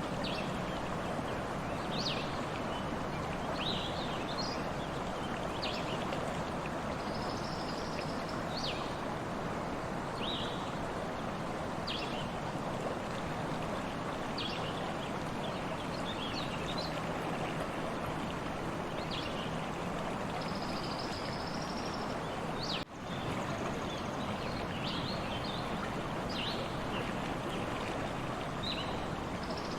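Stream water running steadily, with small birds chirping every second or two and now and then a longer high whistle. The whole sound drops out for an instant about 23 seconds in.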